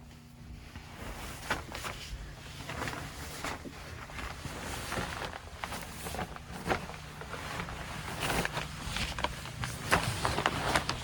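Boiler-room equipment running with a steady low hum, under a run of irregular clicks and knocks that grow busier toward the end.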